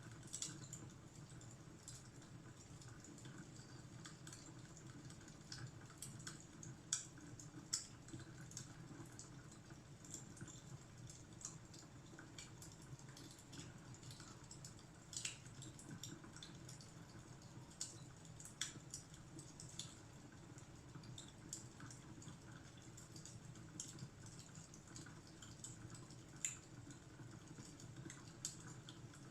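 Faint wood fire crackling: irregular soft pops and snaps at no steady rhythm, over a low steady hum.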